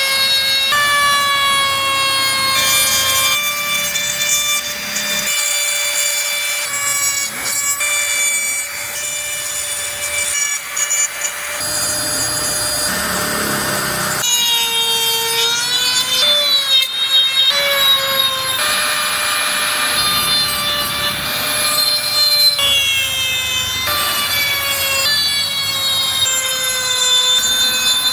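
High-speed electric carving tool whining at a steady high pitch as it cuts wood. The pitch sags and wavers while it is pressed into the work, with a rasp of cutting about halfway through.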